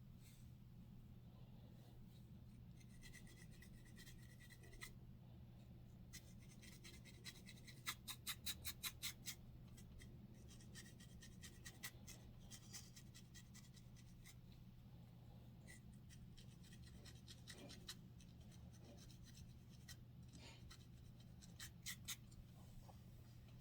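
Faint scratching at hair and scalp, with a quick run of about eight scraping strokes around eight seconds in and a few more near the end, over a steady low hum.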